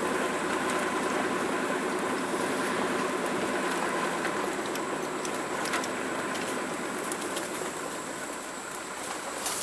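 A vehicle engine running steadily, slowly growing quieter over the last few seconds, with a few faint clicks.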